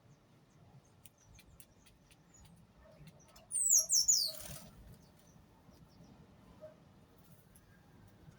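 A bird calling: a quick run of three or four very high, shrill notes, each sliding sharply downward, about three and a half seconds in, over faint scattered ticks and soft peeps.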